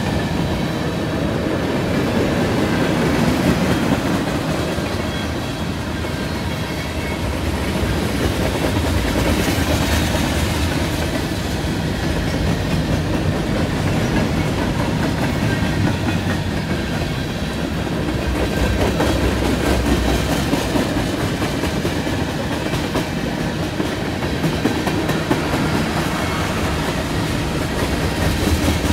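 Freight train cars (covered hoppers and tank cars) rolling past close by: a steady rumble of steel wheels on rail with a continuous clickety-clack of the wheels.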